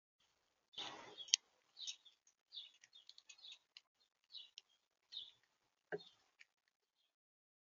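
Small birds chirping at a feeder, a string of short high chirps, with a couple of dull thumps about a second in and near six seconds.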